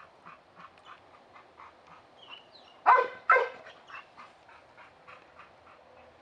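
A dog barking twice in quick succession about halfway through. Faint short sounds repeat about three times a second around the barks.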